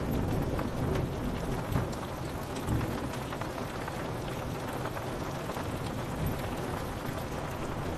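Steady rain on window glass, with many small drop ticks, over a low rumble of thunder.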